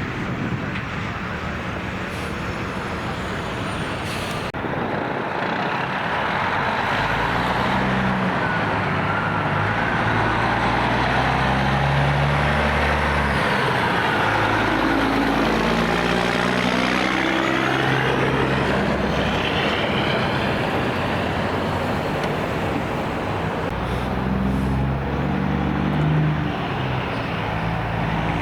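Heavy trucks driving past on a highway: engines running under steady tyre and road noise, with one passing close about halfway through.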